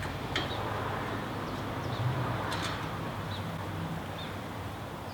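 A sharp click, then about two and a half seconds in a metal tool clinks against metal, over a steady low hum. Short high chirps, like a small bird, come every second or so.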